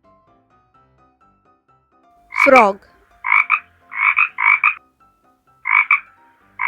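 A frog croaking five times in short, evenly spaced calls, each a quick doubled pulse.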